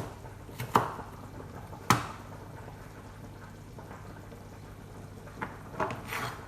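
Chopped onions and peppers frying in hot oil in a pan, a steady sizzle, with two sharp kitchen knocks in the first two seconds and a few lighter ones near the end.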